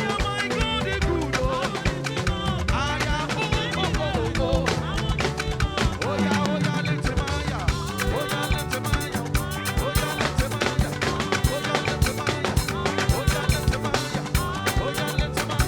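Live band playing fast, upbeat Yoruba gospel dance music, with dense drumming and bending melodic guitar lines.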